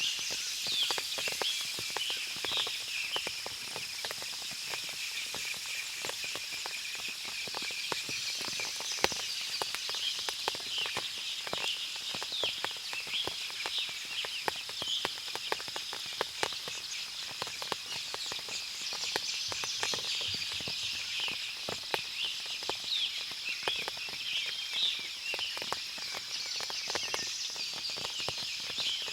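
Forest after rain: many birds chirp and call over a steady high-pitched hum that swells every several seconds. Frequent light ticks sound throughout, like water dripping from the leaves.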